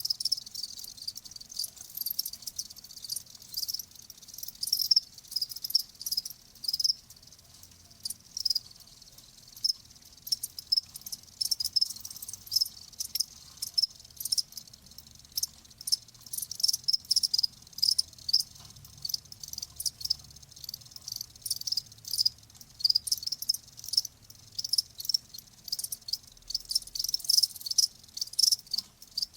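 Crickets chirping: many short, high-pitched chirps overlapping irregularly, thinning out for a few seconds and growing dense again near the end.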